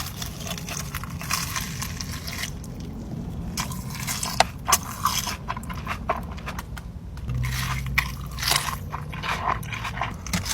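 Close-miked eating: crisp bites and crunchy chewing in irregular bursts, with sharp cracks scattered through.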